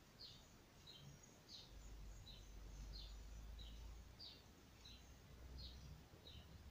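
Faint bird chirping: short, high calls repeated about three every two seconds, two slightly different notes taking turns.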